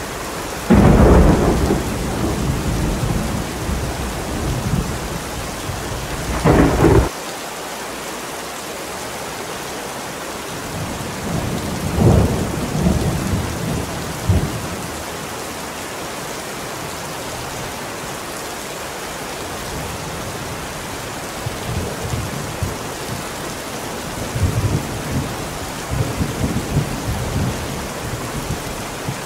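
Heavy rain falling steadily through a thunderstorm. A loud thunderclap about a second in rumbles on for several seconds and ends in a second sharp crack; softer rolls of thunder follow around the middle and again near the end.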